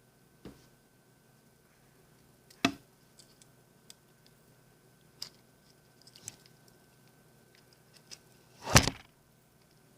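Wire being handled and bent by hand: scattered small clicks and taps, one sharp click a little under three seconds in, and a louder, slightly longer clatter near the end.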